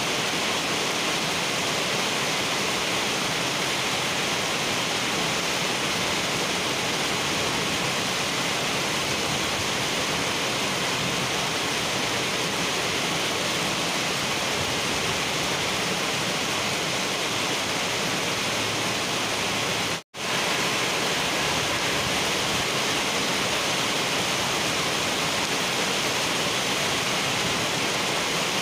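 Heavy rain falling on wet asphalt, a steady, even hiss of drops and splashes. The sound cuts out for a split second about two-thirds of the way through.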